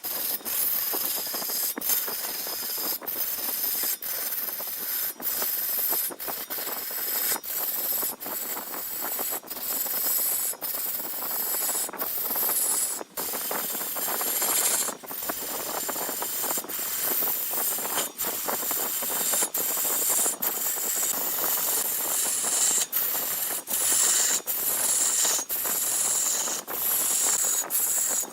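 Turning tool cutting into spinning wood on a lathe: a steady hissing, scraping shave broken by brief gaps about once a second.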